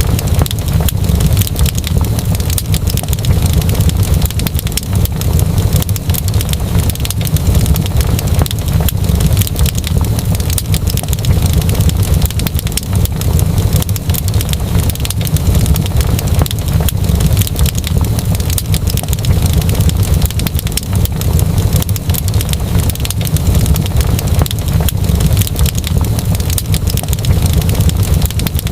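Wood fire burning in a fireplace, crackling and popping densely over a steady low rumble.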